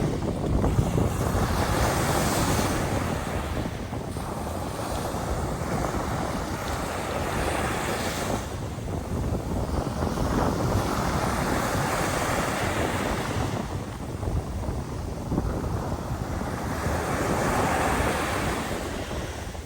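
Sea waves washing up on the shore, the surf swelling and ebbing in slow surges about every eight or nine seconds, with wind buffeting the microphone.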